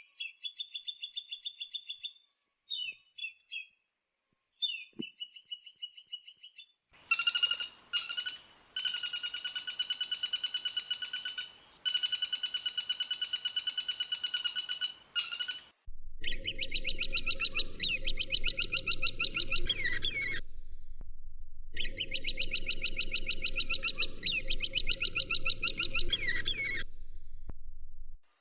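Woodpecker calls: rapid, rattling runs of high pulsed notes in repeated bursts, several seconds long in the later part. From about 16 s a low steady hum lies under the calls.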